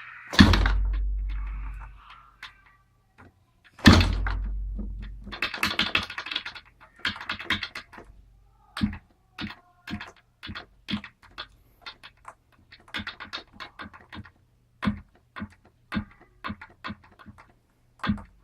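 Irregular clicks and knocks from a DLE 20cc gasoline engine that is not running, with two heavier thumps that ring on, just after the start and about four seconds in. This is the strange noise the owner hears, though the engine runs normally.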